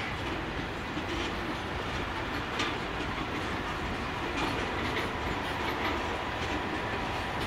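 Container wagons of a long freight train rolling past at low speed: a steady rumble of wheels on rail, with wheels clacking over the track now and then.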